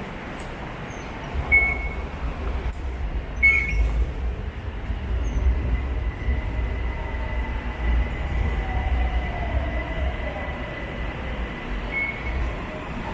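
Electric BTS Skytrain train running on the elevated track, a heavy low rumble with an electric motor whine that falls slowly in pitch in the second half and a thin steady high squeal in the middle. A few short high chirps from the wheels or rails come and go.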